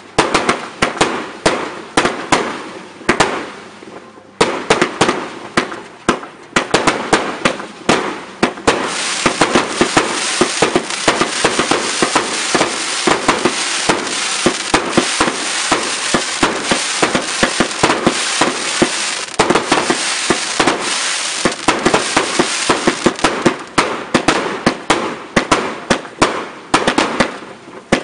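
Fireworks display: rapid sharp bangs and crackling. About nine seconds in the bangs run together into a dense, continuous crackle, which thins back to separate pops after about twenty-two seconds; there is a brief lull near four seconds.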